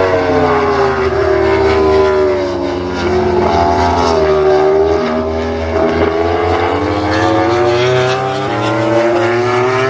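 MotoGP racing motorcycle engines running at the circuit. Their pitch slowly falls and rises again as the bikes slow and accelerate, over a steady low rumble.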